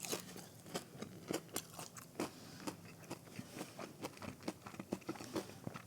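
Close-miked chewing of a breaded fried mozzarella stick: a run of short, irregular crunches and clicks.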